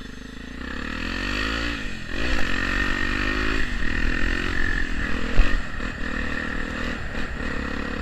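Honda XR250 Tornado's single-cylinder four-stroke engine, with an aftermarket Pro Tork exhaust, accelerating through the gears. The engine note climbs and drops back at each shift, twice in the first few seconds, then holds a steadier note.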